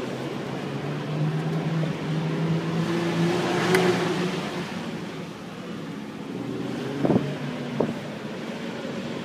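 Infiniti G37x's V6 engine heard from inside the cabin, pulling the car along with its note climbing slightly and swelling loudest about four seconds in, then easing off. Two sharp knocks come near the end, about a second apart.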